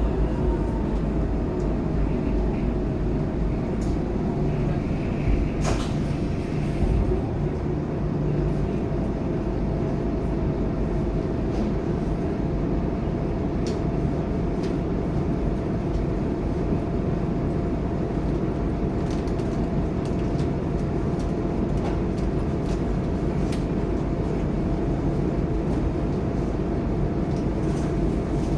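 Scania K230UB city bus running along the road: a steady low engine and road rumble with a faint steady whine and occasional light clicks and rattles.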